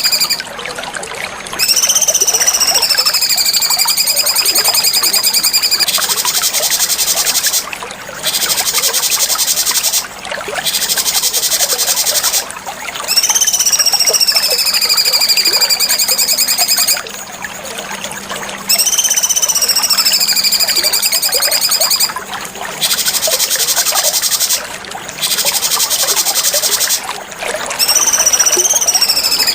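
Cucak cungkok song: clear whistled phrases that swoop down and back up, alternating with long runs of very rapid, buzzy trilling, repeating as a loop about every eleven seconds.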